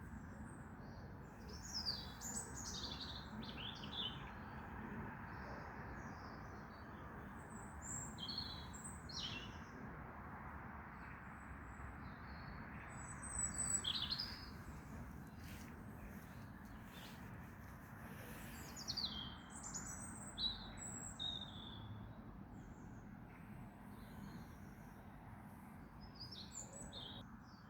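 Wild birds chirping and trilling in short, scattered calls, the loudest cluster about halfway through, over a steady background hiss.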